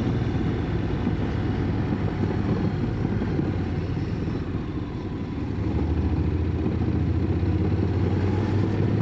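Motorcycle engine running steadily while riding, under a steady rush of air and road noise; the engine eases off slightly around the middle and then picks up again.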